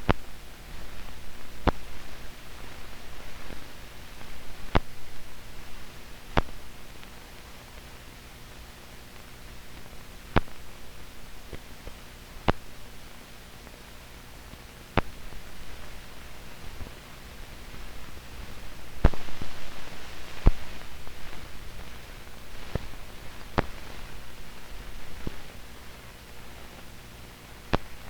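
Soundless stretch of an old film soundtrack: steady hiss and low hum with about ten sharp pops and crackles at irregular intervals, no speech or music.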